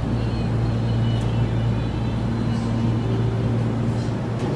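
Steady low hum from an EMU3000 electric train standing at the platform, with a few faint clicks.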